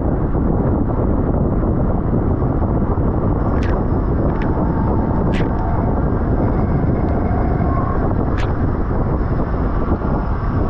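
Heavy, steady wind rush on the microphone of a road bike ridden at race speed, with a few sharp clicks scattered through it.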